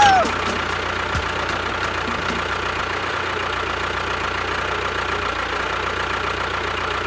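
A motor or engine running steadily with a low hum and no change in speed. A brief pitched whoop sounds at the very start.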